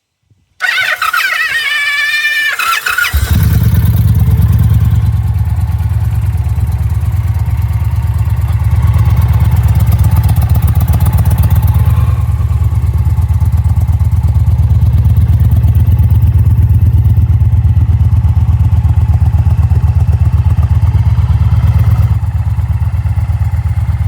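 Motorcycle being started: a starter whirs for about two and a half seconds, then the engine catches and runs steadily and loudly.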